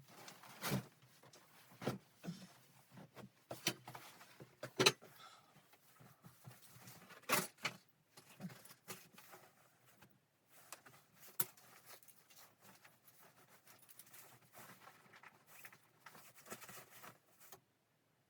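Irregular knocks, clicks and clunks of objects being handled in a small room, a few of them sharper and louder. The sound cuts off suddenly near the end.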